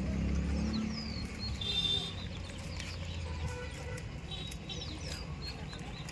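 Small birds chirping in short, quick calls again and again, over a low steady rumble that is strongest in the first two seconds.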